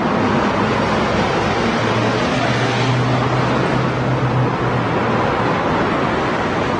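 Road traffic noise: a steady wash of passing vehicles. A single engine's low hum stands out for a couple of seconds in the middle.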